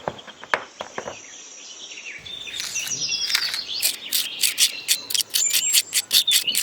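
Birds chirping, with a series of sharp clicks that grow quicker from about halfway through.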